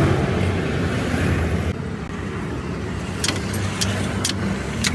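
Motor vehicle engine running among road traffic noise, which drops away abruptly about a third of the way in. In the second half come four or five short, sharp clicks.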